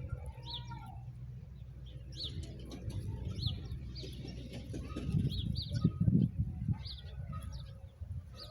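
Birds calling with short, high chirps repeated about once a second, over a low rumble that swells in the middle.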